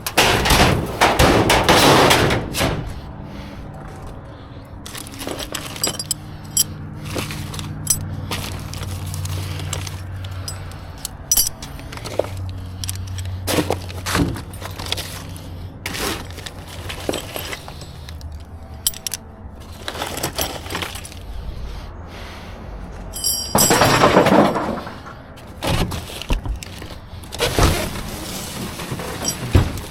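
Scrap metal and debris clanking and crashing while being dug out of a dumpster, with many separate knocks and two loud crashing stretches, one at the start and one about 24 seconds in. A low steady hum runs under the first half.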